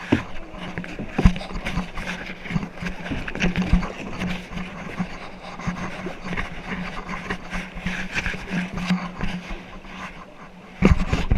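Canoe going down a stretch of river: rushing water with many short knocks and scrapes of paddles against the hull. Wind buffets the microphone near the end.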